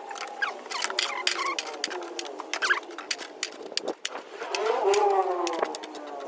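Metal squeaking and scraping with many sharp clicks and taps, as copper windings are pried and pulled out of a welder's transformer coil. A longer squeal rises and falls about five seconds in.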